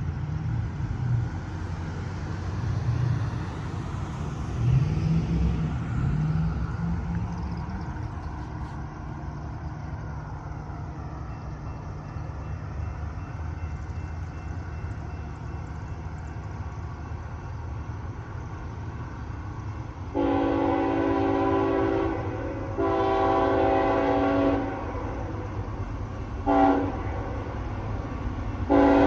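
Diesel locomotive approaching with a low, steady engine rumble, then sounding its multi-tone air horn in the grade-crossing pattern: two long blasts, a short one, and a final long blast beginning near the end.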